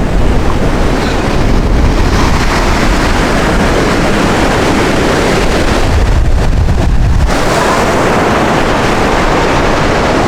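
Caribbean surf washing in, with strong wind buffeting the microphone into a heavy low rumble; a stronger gust about six seconds in muffles the surf for a second or so.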